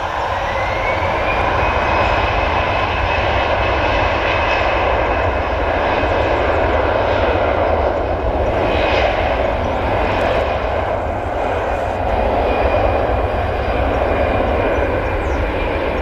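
Air France Airbus A320's jet engines at take-off thrust, a loud steady rush with a high whine that rises over the first couple of seconds and then holds.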